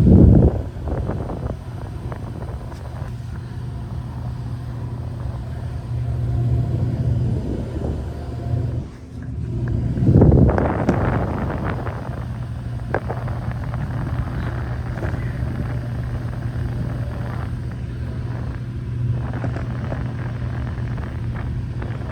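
Outdoor central air-conditioner condenser unit running, with a steady low hum and fan air noise. Two louder rushes of noise come at the very start and about ten seconds in.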